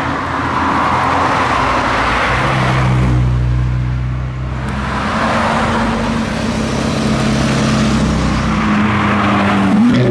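Car engines running as cars drive past, in two swells that rise and fade, with a steady engine note underneath and an engine revving up near the end.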